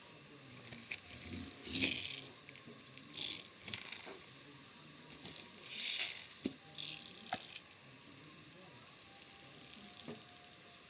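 Plastic toy trucks being handled, rattling and scraping in four short bursts with a few sharp clicks.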